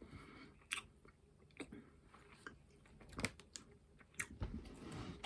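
A person chewing a sour candy that may have gum inside, with faint wet mouth clicks and smacks every second or so.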